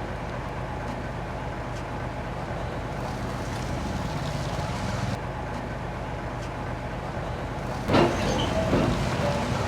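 Heavy diesel engine of earthmoving machinery running steadily, with a brief louder burst about eight seconds in.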